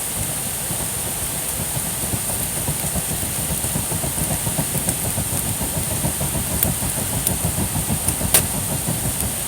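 Campfire burning with a low, fluttering rumble over a steady hiss, and a few sharp crackles, the loudest about eight seconds in.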